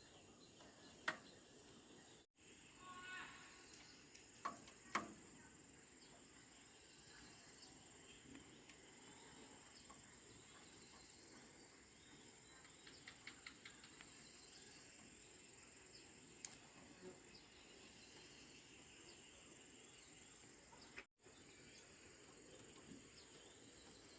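Faint outdoor ambience: a steady high insect drone, with a few soft clicks and knocks and a brief bird chirp.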